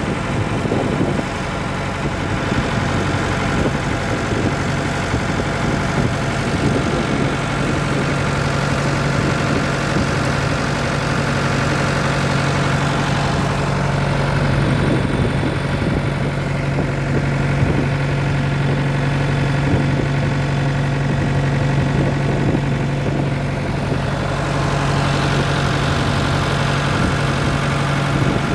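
An engine on a fishing boat running steadily at one constant speed, with a strong, even hum.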